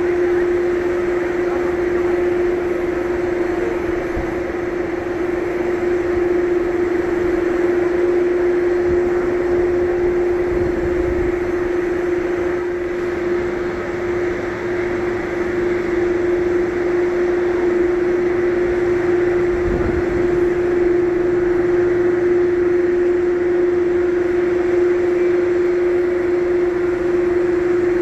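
Airbus A330 jet engines at taxi idle: a steady hum with one constant mid-pitched tone.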